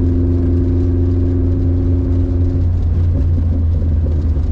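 1992 Subaru Sambar kei truck's small 660 cc four-cylinder engine running under way with road rumble, heard from the cab; its steady engine tone drops away a little over halfway through, as when easing off the throttle or shifting.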